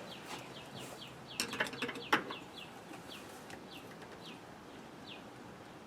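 A bird chirping: a series of short falling notes, about three a second at first and more spaced out near the end, with a few sharp clicks about one and a half to two seconds in.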